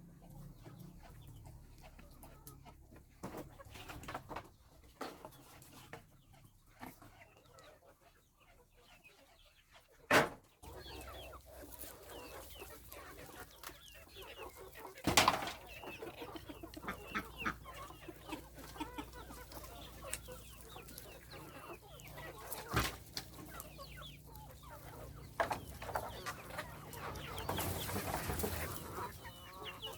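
Domestic chickens clucking on and off, with a few sharp knocks breaking in, the loudest about ten and fifteen seconds in.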